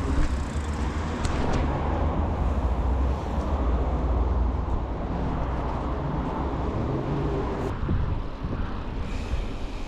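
Steady low rumbling noise of travel under way: wind buffeting the microphone mixed with road noise. The higher part of the noise drops away suddenly about eight seconds in.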